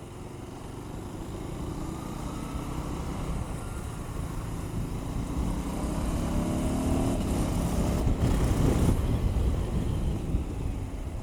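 KTM 390 Adventure's single-cylinder engine accelerating up through the gears in rain mode, with the revs held to about 4,000 to 5,000 rpm. The pitch rises in each gear and drops back at each shift, and it gets louder towards the end.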